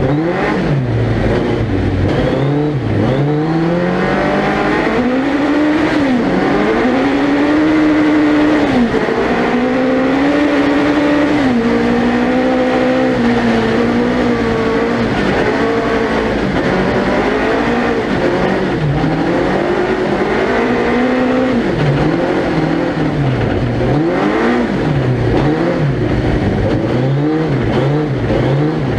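Suzuki Hayabusa 1300cc inline-four motorcycle engine in a four-wheel-drive prototype, heard onboard, revving up and dropping back again and again as the car accelerates and lifts through corners, with a longer pull at high revs about eight to twelve seconds in.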